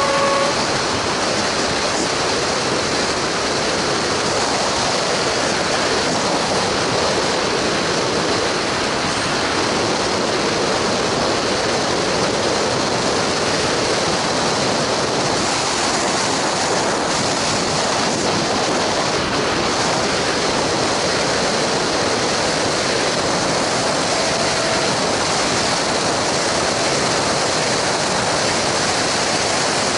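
Steady rushing noise from travelling alongside a freight train hauled by a Class 66 diesel locomotive: wind and road noise of the moving vehicle blended with the train running. The last of a two-note locomotive horn blast cuts off in the first half second.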